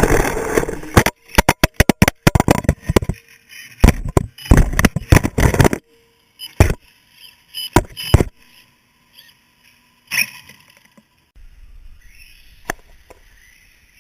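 Radio-controlled short-course trucks running on a track: a steady motor noise for about a second, then loud choppy bursts of motor noise and impacts that stop and start abruptly, thinning to a few scattered knocks in the second half.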